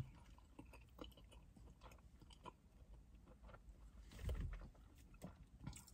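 Near silence with faint chewing and small mouth clicks, and a soft low bump about four seconds in.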